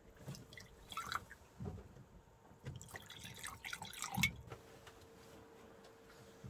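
Liquid dripping and splashing with small clicks and knocks of glassware as drinks are mixed. A faint steady hum remains once the handling stops, about two thirds of the way through.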